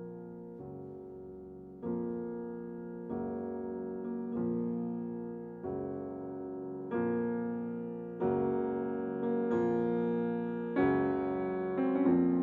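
Slow piano music: soft chords struck about every second and a bit, each ringing and fading, growing louder and reaching higher notes toward the end.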